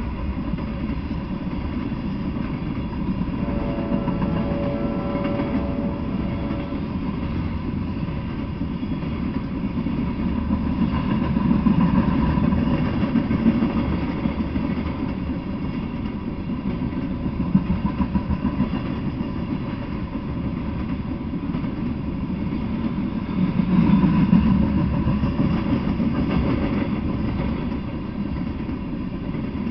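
Freight train of tank cars rolling past: a continuous rumble of wheels on rail that swells louder twice. A brief high tone rings for a couple of seconds about four seconds in.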